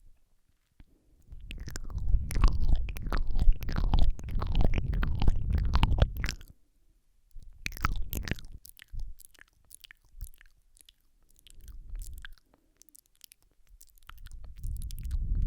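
Close-miked ASMR mouth sounds: wet lip and tongue clicks and smacks right against a Rode microphone, with a heavy low rumble from the closeness. They come in bursts separated by pauses, the longest lasting about five seconds after a second of quiet.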